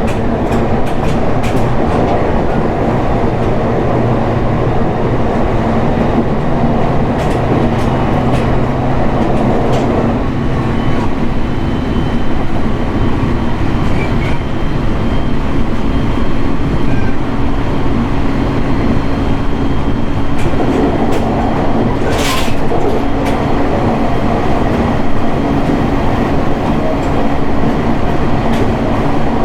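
Running noise inside a JR East 701 series electric train cruising along the line: a steady drone of wheels on rail with a low hum underneath and light clicks from the rails. About two-thirds of the way through there is one short hiss.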